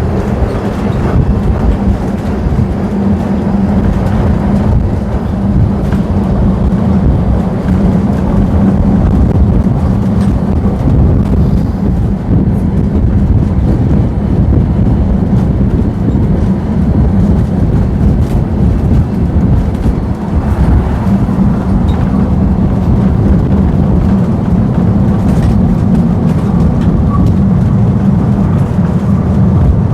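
Vintage tram running along its rails: a loud, steady low rumble with a constant hum.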